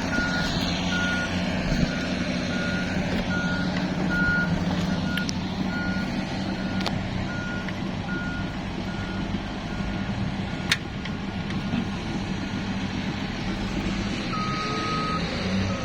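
A heavy vehicle's reversing alarm beeping evenly, about three beeps every two seconds, over the steady low hum of a running engine. Near the end a second, slightly lower-pitched reversing beeper sounds one long beep, then shorter ones.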